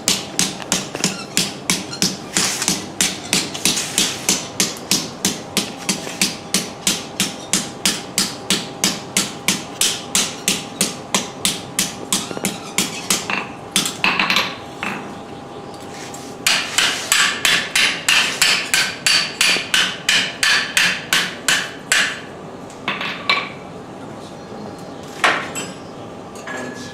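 Power hammer forging stainless steel bar in fast, even blows, about four a second. It runs in two long spells with a short pause between, then gives a few single blows near the end.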